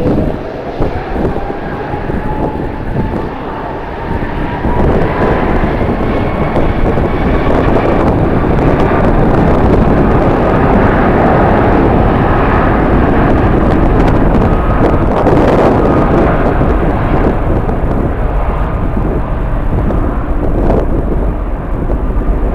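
Jet airliner engines: a whine rising in pitch, then a loud, steady rush of jet noise from about five seconds in.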